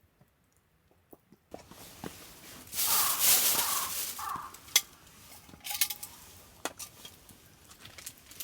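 Light clicks and knocks of small hard objects, with a louder hissing rush lasting about a second and a half around three seconds in.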